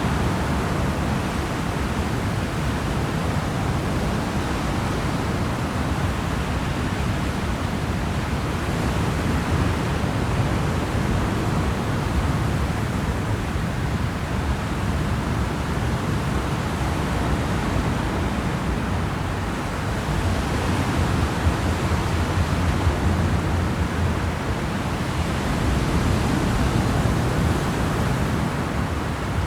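Steady rushing noise aboard a moving ferry: wind and water with a low rumble underneath, swelling slightly about two-thirds of the way through.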